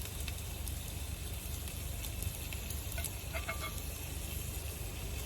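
Food sizzling as it cooks in a pan over a camp stove or fire, a steady hiss with small crackles. A short high chirp sounds about three and a half seconds in.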